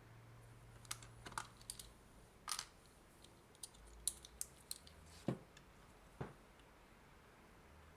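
Light clicks and taps of small hard parts and tools being handled, scattered irregularly through the first six seconds, with the sharpest tap about five seconds in.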